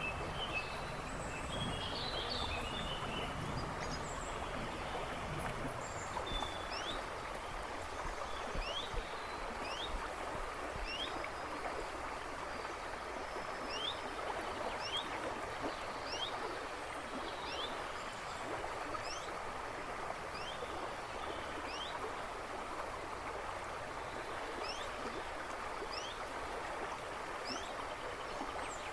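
River babbling and rushing steadily. Birds chirp in the background: a cluster of chirps near the start, then a short rising call repeated about once a second.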